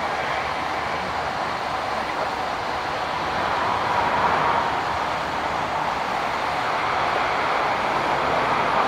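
Jet airliner engines giving a steady rushing roar, swelling a little about four seconds in.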